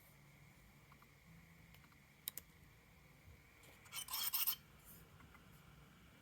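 Broken 2019 16-inch MacBook Pro making a strange sound: a couple of quick clicks about two seconds in, then a brief scratchy, crackling burst about four seconds in, over a faint steady high tone and low hum.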